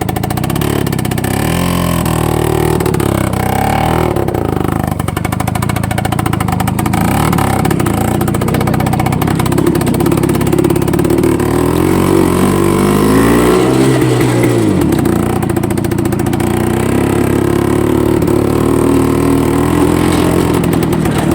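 IZh-49 motorcycle's single-cylinder two-stroke engine running under load on the move, its pitch rising and falling with the throttle. It climbs highest about two-thirds of the way through, then drops back.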